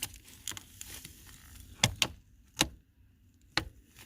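A handful of sharp clicks and knocks, about five spread over four seconds, from hands handling small plastic wiring connectors and trim under a pickup's dash.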